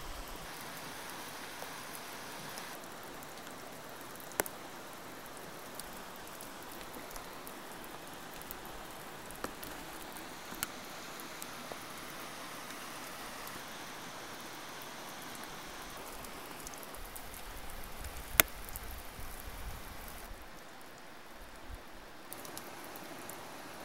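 Steady hiss of rain falling on water and forest, broken by a few sharp clicks, the loudest about eighteen seconds in.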